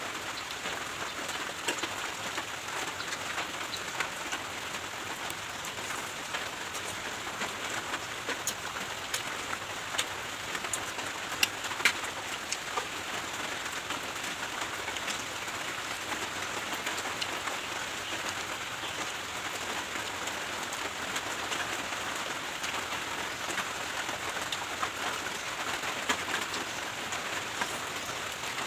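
Steady rain falling, an even hiss with many small drop ticks and a few sharper ones, the loudest about twelve seconds in.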